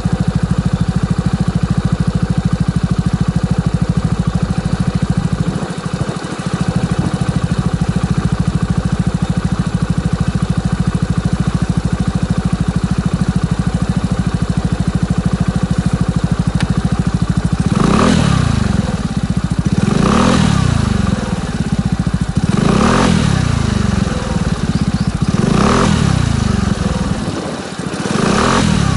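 Suzuki Address 125 scooter's single-cylinder engine running through an aftermarket BEAMS Power Classic Caburton full exhaust. It idles steadily, then from about two-thirds of the way in it is blipped four times, each rev rising and dropping back to idle.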